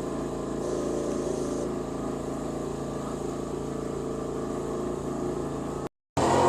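Yamaha YZR-M1 racing motorcycle's crossplane inline-four engine running at a steady, even speed. Near the end the sound breaks off for a moment and comes back louder.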